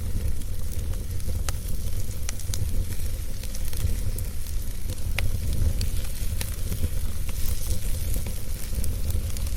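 Wood fire burning and crackling, with irregular sharp pops and snaps over a steady low rumble and hiss.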